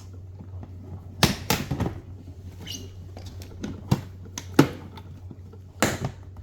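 Hard plastic parts of a toy washing-machine and ironing-board set being handled, giving about six sharp clicks and knocks over a low steady hum.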